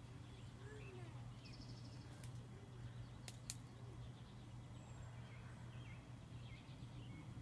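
Faint steady low hum of a large honeybee swarm, with small birds chirping here and there and a couple of sharp clicks.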